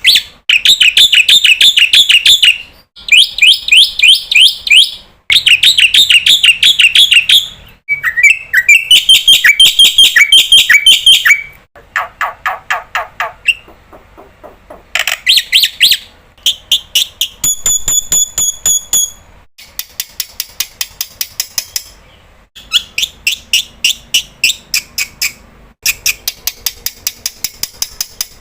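Black-winged myna (jalak putih) calling loudly in phrases of rapid repeated harsh notes, each phrase lasting a few seconds with brief pauses between. One phrase, about two-thirds of the way in, is a run of clear whistled notes.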